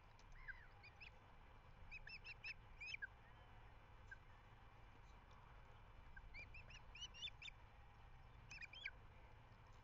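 Ospreys calling at the nest: faint series of short, high whistled chirps in three quick bursts, over a low steady rumble.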